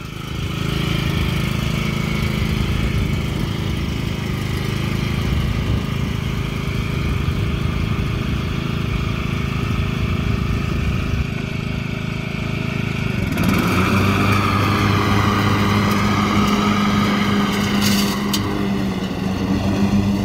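Cub Cadet LT42 riding lawn mower's engine running steadily. About two-thirds of the way through, its pitch shifts and it gets a little louder.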